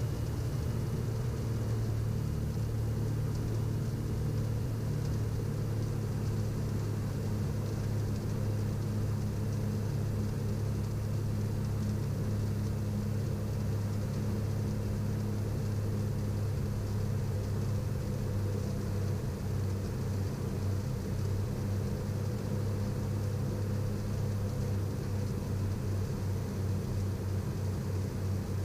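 Twin piston engines and propellers of a Piper Navajo Panther conversion droning steadily in the cabin on final approach. The drone is a low, even hum with a faint hiss over it.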